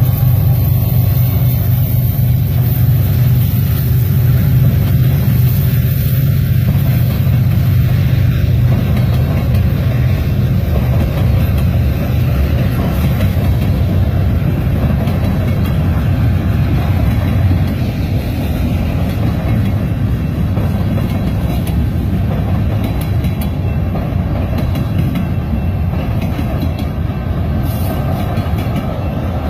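Freight train rolling past, a steady loud rumble and rattle of wheels on the rails that eases slightly about halfway through.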